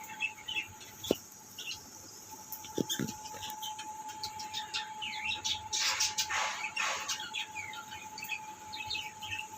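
Small pet birds chirping and twittering in many short, quick calls, growing busier and harsher about six to seven seconds in. A few sharp knocks near the start and a steady faint hum underneath.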